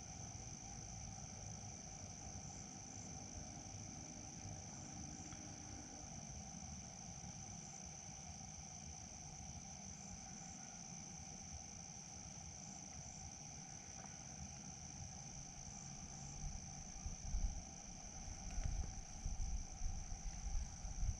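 Crickets and other insects chirring steadily, a constant high trill over a lower steady drone. From about three quarters of the way in, irregular low rumbles and bumps come in.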